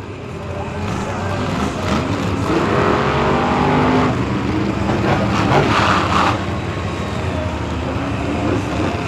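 Monster truck engine running and revving, its pitch climbing a couple of seconds in, with a louder, rougher stretch around the middle.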